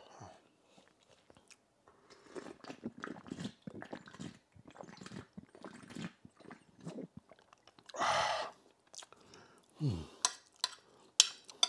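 Close-miked chewing of a mouthful of rice, beans and meat in stew, with many small wet mouth noises. About eight seconds in there is a louder breathy sound, and near the end a few sharp clicks.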